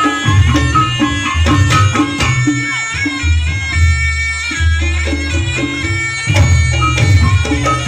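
Reog Ponorogo ensemble music: a slompret, a reedy double-reed shawm, plays a nasal, held melody over drumming and deep gong tones. The drum strokes thin out for a few seconds in the middle, then come back.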